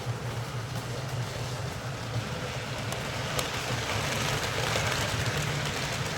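Hornby model locomotive running on the track: a steady electric motor hum with wheel noise on the rails, getting louder about four seconds in.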